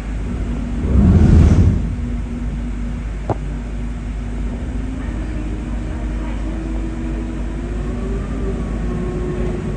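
Electric boat running: a steady low rumble with a faint motor hum that slowly rises in pitch over the second half. A loud rushing swell about a second in and a single sharp click a few seconds later.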